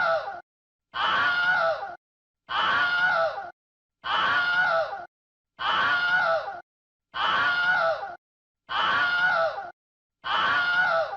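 A recorded human scream about a second long, repeated identically about every one and a half seconds with silence between. Each scream drops in pitch toward its end.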